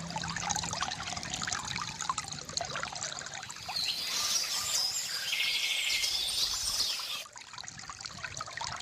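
Water trickling and splashing steadily from a bamboo fountain. Birds chirp over it for a few seconds in the middle, one with a fast trill.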